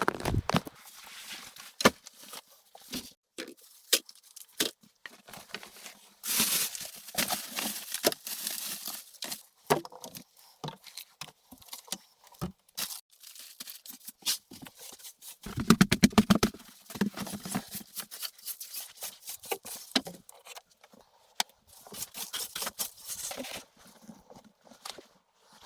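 Irregular clicks and knocks with short scraping, rustling stretches, and a louder run of rapid scraping strokes about sixteen seconds in.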